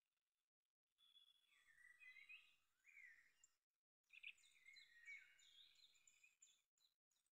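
Very faint birdsong: short chirps and gliding whistles in two stretches, broken by moments of dead silence.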